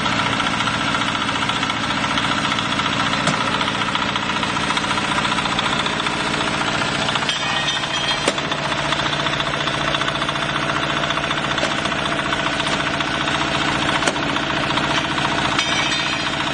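Diesel-engined mobile block-making machine running steadily with a fast, dense rattle, with a few sharp knocks about three, eight and fourteen seconds in.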